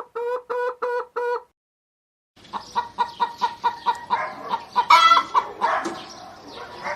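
Chickens clucking, several overlapping short calls, starting about two and a half seconds in. Before them comes a run of short, evenly repeated pitched notes, about three a second, which stop about a second and a half in.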